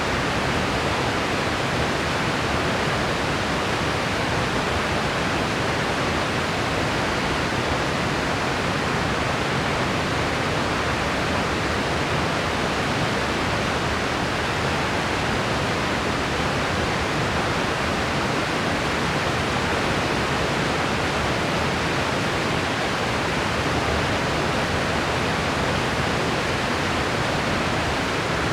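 Steady white-noise track: an even, unchanging hiss with no breaks or variation.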